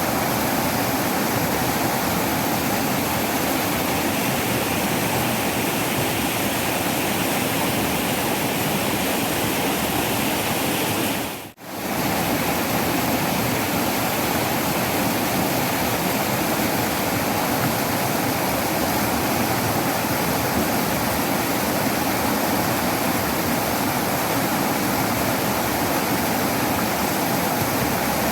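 Waterfall: a steady rush of falling water. Near the middle it briefly fades almost to nothing and comes straight back.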